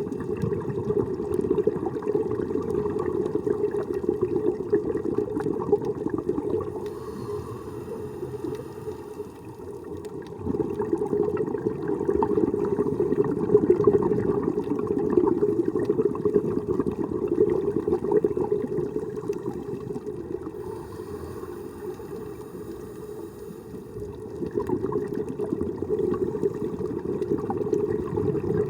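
Underwater sound of scuba breathing: long stretches of bubbling, rumbling exhaust bubbles, broken twice by a quieter few seconds with a faint high hiss, as of air drawn through the regulator.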